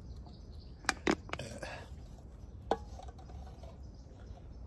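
A few sharp clicks and knocks: three close together about a second in, followed by a brief rustle, and one more a little before the middle. A steady low rumble runs underneath.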